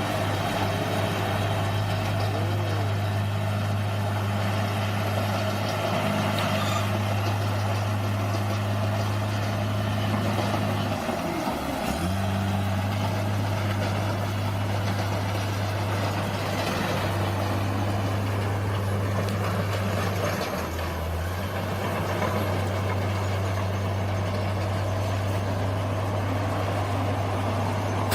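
Bulldozer diesel engine running steadily with a deep, even hum. It dips briefly about halfway through and shifts again about two-thirds of the way in, as the load changes.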